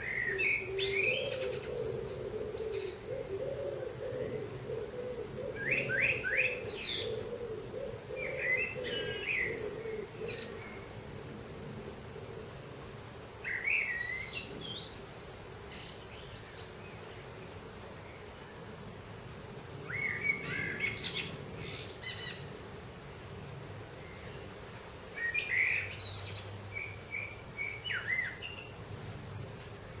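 Garden songbirds singing in short, high chirping phrases every few seconds, with a low wavering coo, typical of a pigeon or dove, beneath them for about the first ten seconds.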